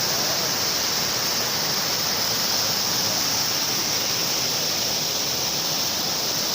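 Steady rushing water of a river and small waterfall.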